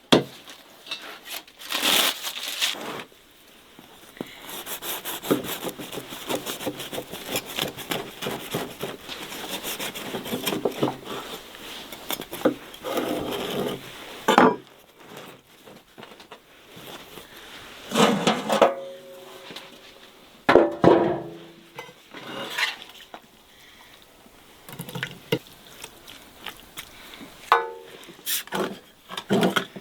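Kitchen work: dishes and utensils knocking and clinking, with scraping and rubbing as food is handled.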